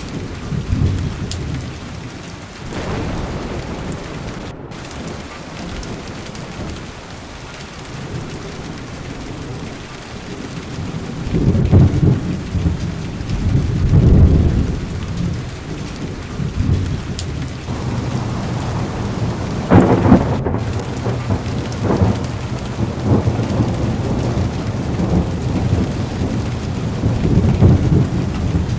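Heavy rain falling on a car's window, with thunder rumbling under it. The rumbles swell and fade several times, loudest about twelve, fourteen and twenty seconds in.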